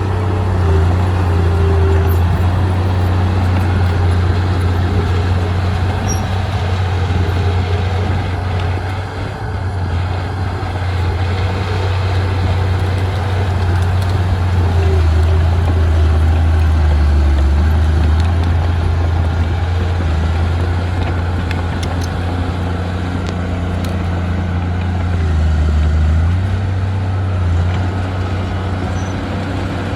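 Diesel engine of a D20P crawler bulldozer running steadily under load, a low drone that dips in pitch briefly about halfway through and again near the end.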